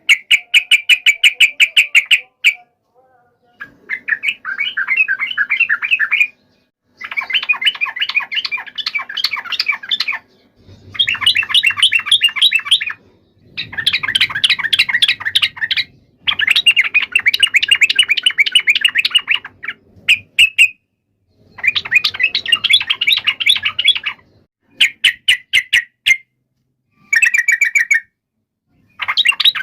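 Yellow-vented bulbuls (trucukan) giving rapid, chattering song bursts of a couple of seconds each, broken by short pauses: the excited 'fighting' song used to make other bulbuls answer.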